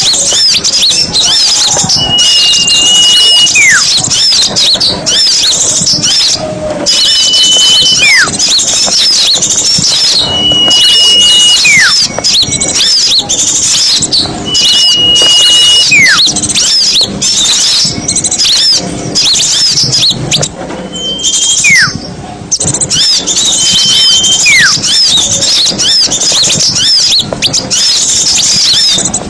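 Bird-lure recording of many small songbirds calling at once in a dense, noisy chatter. Over it, a loud whistle repeats about every four seconds: a held high note that then slides sharply downward.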